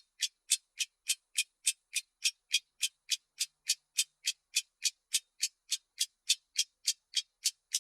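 Clock ticking, fast and even at about three and a half ticks a second, the ticks alternating slightly louder and softer.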